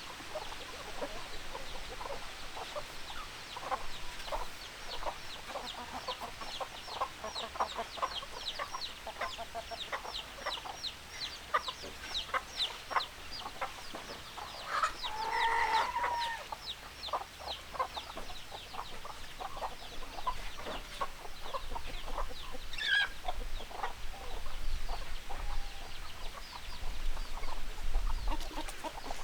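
Chickens clucking, with a rapid run of short, high peeps or chirps through the first half. About halfway through comes a drawn-out call about a second long, and a shorter falling call follows later.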